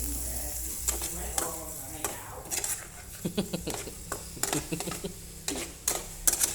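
Utensils clinking and scraping against a frying pan of coconut palm grubs, a string of sharp separate clicks, with a light sizzle underneath.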